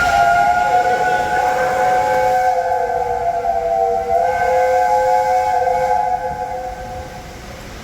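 Steam locomotive whistle on A1 Peppercorn 60163 'Tornado', blown in one long blast of several notes sounding together, dying away about six to seven seconds in.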